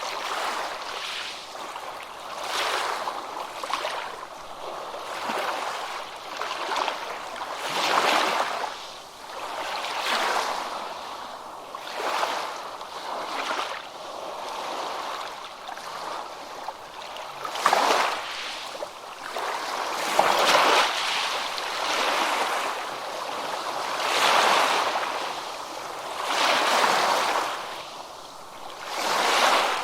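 Ocean waves breaking and washing up on a beach, the surf swelling and falling every couple of seconds, with a few sharper breaks among the softer washes.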